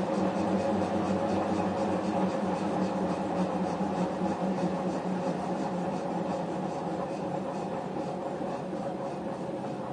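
Diesel engine of SNCF BB 68540 locomotive running steadily with an even low hum, easing off slightly in level toward the end.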